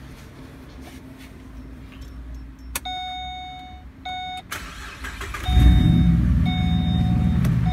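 A click, then a dashboard warning chime beeping. About five and a half seconds in, the Chevrolet Omega's 3.6 V6 starts and settles into a loud, deep idle through a straight exhaust, with the catalytic converters and mufflers removed, while the chime keeps beeping.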